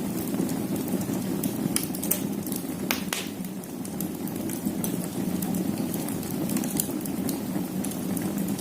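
Wood fire burning in a fireplace: a steady low rush of flame with scattered sharp crackles and pops of the burning logs at irregular moments.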